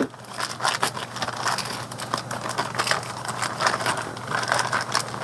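Irregular light clicks, rustling and scraping of parts being handled, over a steady low hum.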